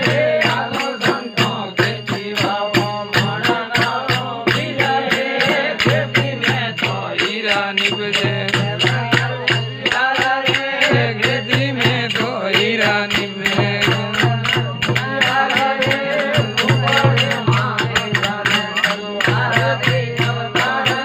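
Rajasthani desi bhajan: a devotional folk melody with voice-like wavering pitch over a fast, steady percussion beat and a pulsing low drone.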